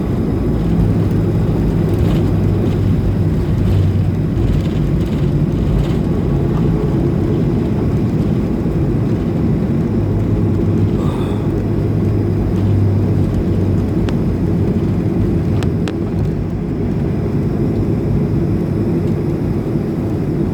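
Steady low rumble and hum of a Boeing 737-500's engines heard inside the cabin, with the plane on the runway just after landing.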